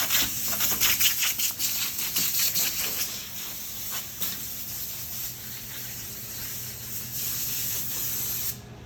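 Compressed-air blow gun hissing as dust and chips are blown off a CNC router's table, with clattering knocks during the first few seconds; the hiss cuts off suddenly near the end.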